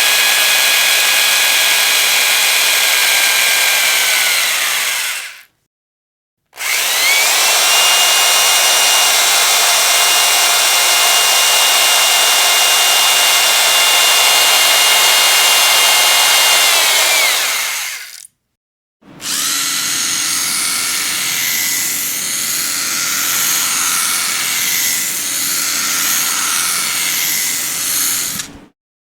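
Electric power drill running at full speed in three separate bursts, separated by two short silent gaps. Each burst winds down in pitch as the trigger is released; the third burst sounds rougher than the first two.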